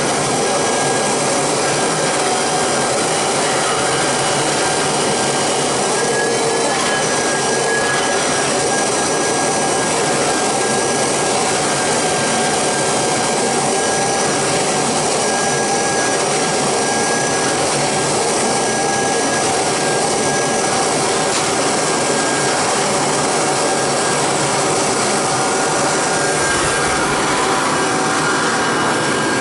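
Kirby Heritage II vacuum running in canister mode with its wand and floor tool worked over bare floor: a steady motor rush with a high whine and a rasping, rubbing sound from the tool. The high whine wavers and drops away about two-thirds of the way through.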